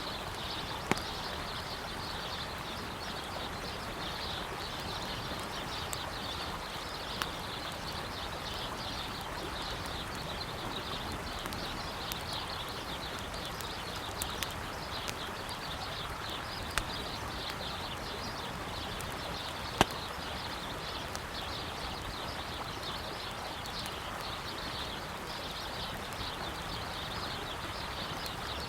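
Wood campfire crackling, with a sharp pop every few seconds, over the steady rush of a flowing river.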